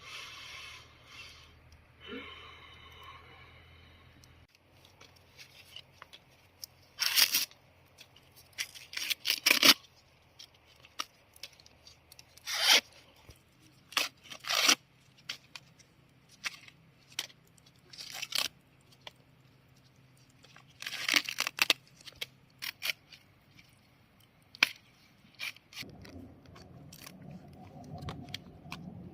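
Close-up tearing and scraping sounds: a dozen or so short, sharp rasps at irregular intervals, then a steadier low noise near the end.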